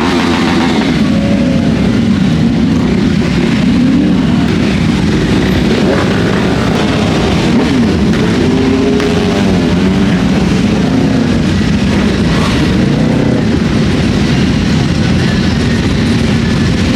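A steady stream of motorcycles riding past, many engines running at once with overlapping engine notes that rise and fall as riders rev and pass.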